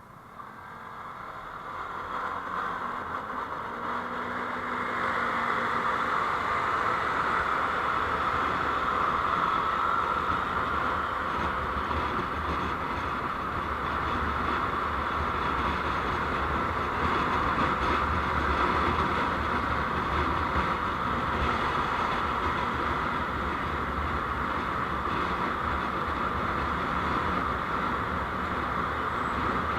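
Road noise from a moving vehicle, heard on a dashcam: a rushing noise that grows louder over the first five seconds or so as the vehicle gathers speed, then holds steady.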